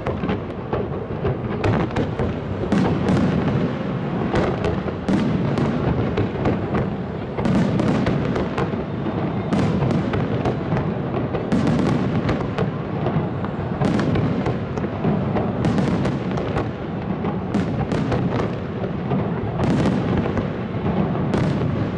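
Fireworks display: a dense, unbroken barrage of shells bursting, with many sharp bangs and crackles overlapping.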